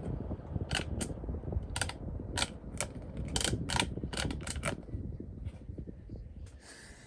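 Irregular mechanical clicking and rattling, about a dozen sharp clicks over a low rumble, thinning out in the second half.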